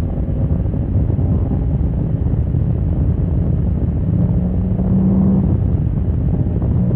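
Motorcycle at speed on a racetrack, with heavy wind buffeting on the microphone over the engine. An engine note comes up about four seconds in.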